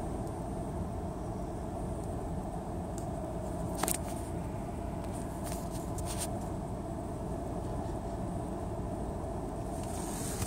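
Car idling, heard from inside the cabin as a steady low hum. A sharp click about four seconds in, and a few fainter ones a little later.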